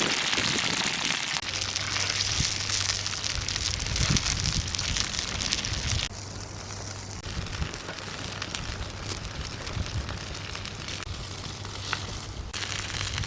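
Frog meat frying in hot oil: a steady dense sizzle with fine crackling, which eases about halfway through and picks up again near the end.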